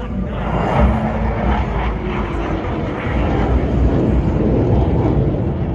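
Jet noise from J-10 fighter jets flying past in an aerobatic display, swelling in just after the start and staying loud, with a tone that slides down in pitch as they go by.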